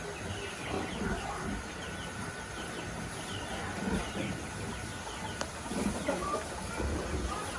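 Chickens clucking, with a steady scatter of short, high chirps.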